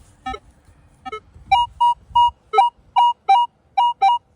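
Metal detector sounding short, repeated target beeps at two alternating close pitches, about two to three a second, starting about a second in, as the dug hole and plug are checked for the coin.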